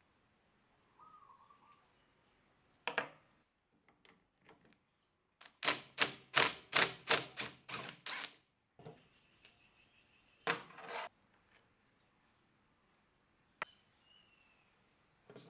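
Scattered sharp knocks and clicks from hands-on workshop work, with a quick run of about ten sharp taps, roughly four a second, about six seconds in, the loudest part.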